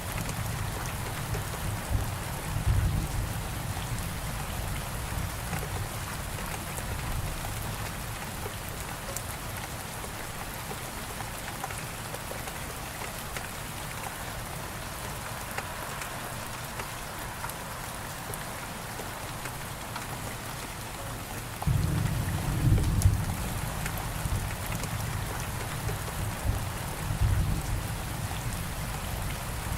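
Steady rain falling, with a deep rumble of thunder in the first few seconds that dies away, then rolling thunder coming back about two-thirds of the way through and rumbling on to the end.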